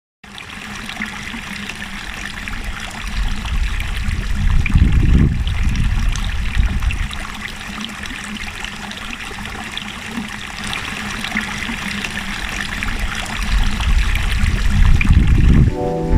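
Running water of a stream trickling steadily, with low rumbles swelling about five seconds in and again near the end.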